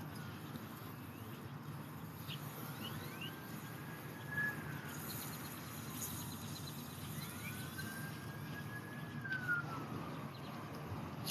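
Distant emergency-vehicle siren wailing, slowly rising and falling about every five seconds, over a steady rumble of traffic.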